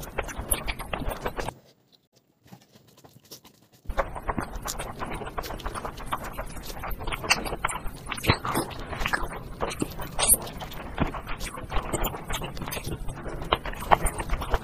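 Close-up eating sounds: chewing and lip-smacking, with the soft squelch of fingers mixing rice and curry, heard as a quick, irregular run of small wet clicks and smacks. The sound drops out for about two seconds soon after the start.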